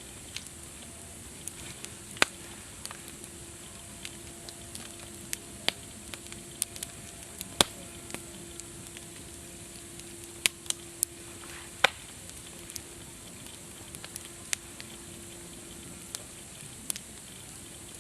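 Wood campfire crackling: a steady low hiss with irregular sharp pops and snaps, several of them much louder than the rest.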